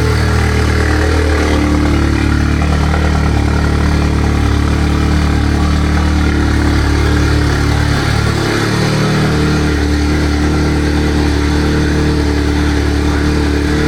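Mk7 Golf GTI's 2.0-litre turbocharged four-cylinder engine idling at the raised revs of a fresh startup, exhaling through a newly fitted ARM 4.5-inch downpipe. The sound is much louder and holds steady.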